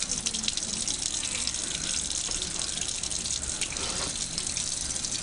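Tap water running steadily into a sink while a small puppy is rinsed under it.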